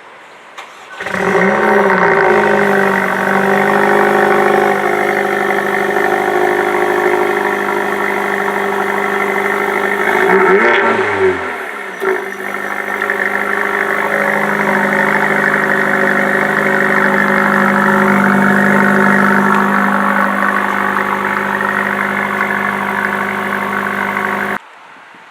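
Mercedes-AMG CLA45's 2.0-litre turbocharged four-cylinder engine started up: revs flare briefly about a second in, then settle to a steady idle. A quick blip of the throttle comes about eleven seconds in, then idle again until the sound cuts off abruptly near the end.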